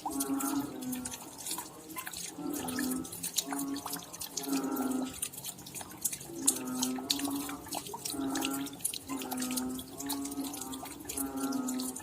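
Raindrops dripping and splashing in a dense patter of sharp ticks. Behind it, a low pitched sound repeats about once a second, each one slightly falling.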